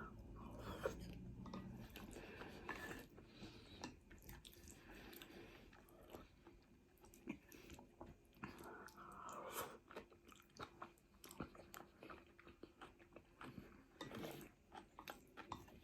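Quiet chewing and biting of food, with many small scattered clicks and light crunches.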